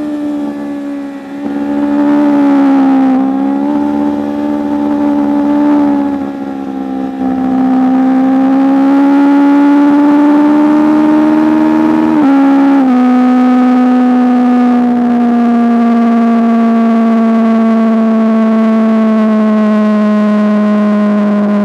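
Superbike racing engine running hard at high revs, its pitch rising and falling with the throttle. About twelve seconds in the pitch drops abruptly in a quick gear change, then it slowly falls.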